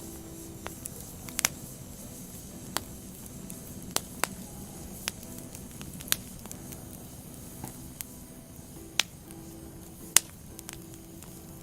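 Burning firewood crackling: a steady low hiss and rustle with sharp, irregular pops, about one a second, the loudest about ten seconds in.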